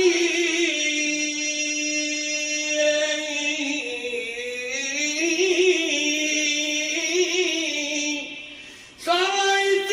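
A man's voice chanting an unaccompanied Islamic devotional supplication (ibtihal), drawing out long melismatic notes. The phrase fades out about eight seconds in, and a new phrase begins a second later.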